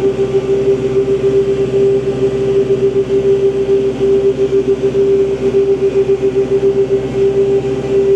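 Kubota tractor's diesel engine held at about 2,000 rpm in low gear while dragging a box scraper along a gravel road, with a strong steady whine over the engine.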